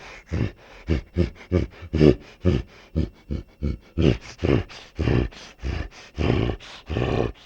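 Animal-like voice making rapid, rhythmic pants, about four a second, that stop abruptly near the end.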